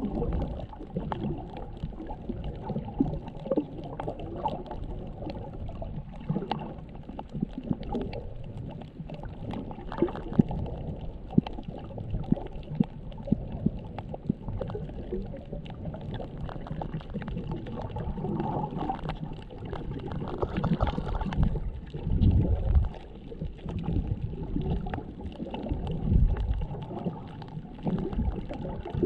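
Underwater sound recorded through a caseless GoPro Hero7's own microphone: a steady low rumble of moving water with scattered sharp clicks and crackles throughout, and a few heavier low surges in the last third.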